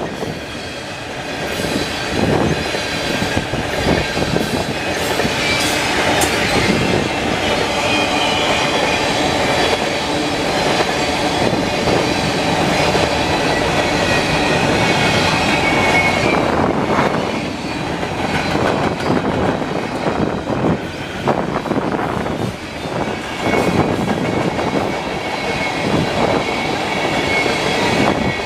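Freight cars of a passing train rolling by: steel wheels clattering over the rail joints, with a faint high wheel squeal coming and going. Strong wind buffets the microphone.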